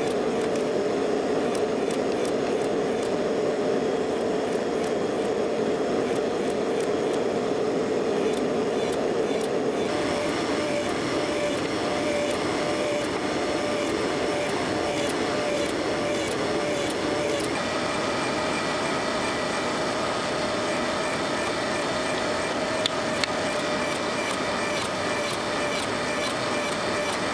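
Steady workshop machine noise with no pauses, its character changing abruptly about ten seconds in and again a little past halfway.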